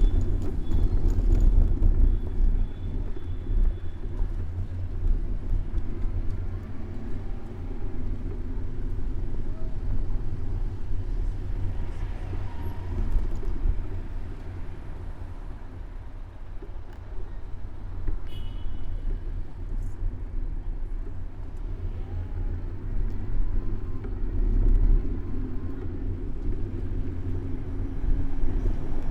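City street traffic with cars passing, heard from a camera mounted on a moving bicycle, under a steady low rumble of road and wind noise.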